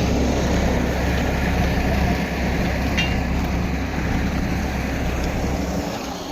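Tractor's diesel engine running steadily, with a brief tick about three seconds in.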